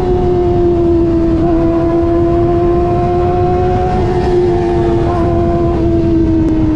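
Kawasaki ZX25R's 250 cc inline-four through an aftermarket racing exhaust, held at high revs in a steady cruise, its pitch sagging slightly as the revs ease. A dense rushing noise runs beneath it.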